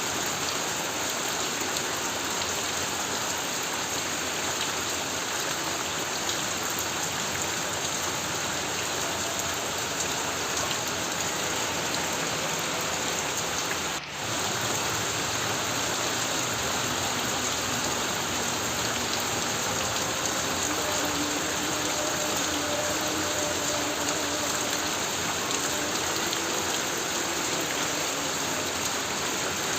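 Heavy rain drumming steadily on a corrugated tin roof, with one brief dip in level about halfway through.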